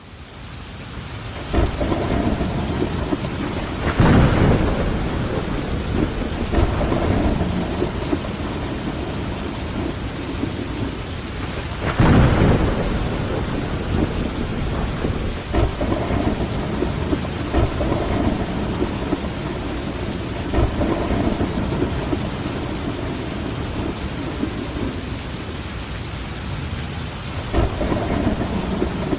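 Rain falling steadily on a window, fading in from silence at the start, with rolls of thunder swelling over it several times, the loudest about 4 and 12 seconds in.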